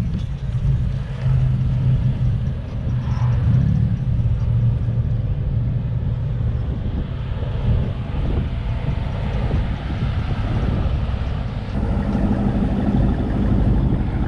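Car engine running at low revs, a steady low drone whose pitch steps up a little near the end.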